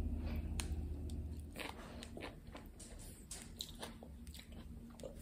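A person chewing a spoonful of stuffed poblano pepper close to the microphone, with many small irregular wet clicks and crackles. A low hum cuts off about a second and a half in.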